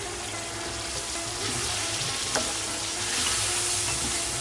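Chicken pieces in masala sizzling in a hot steel pan as a little water is poured in, the sizzle growing louder about a second and a half in. A wooden spatula stirs the chicken, with one sharp knock against the pan a little past two seconds in.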